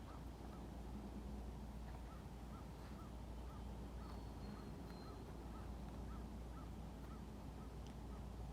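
Faint outdoor ambience: a bird calls in a quick run of short, repeated notes, about two or three a second, over a low steady rumble, with a brief thin high whistle about four seconds in.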